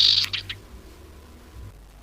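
A harsh, hissing bird call from a bird-lure recording, ending about half a second in. After it only a faint low hum remains.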